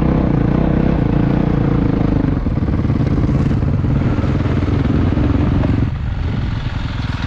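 Motocross dirt bike engine running loudly and steadily; its note changes about two and a half seconds in and eases off about six seconds in.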